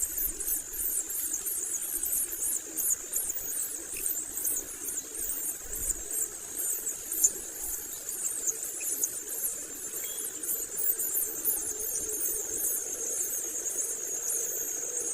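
Long-tailed shrikes (cendet) calling: a continuous stream of rapid, very high-pitched squeaky chirps over a steady high whine.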